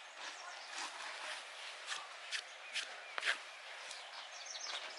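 Footsteps on a dirt hiking trail: a faint, irregular series of scuffing, crunching steps.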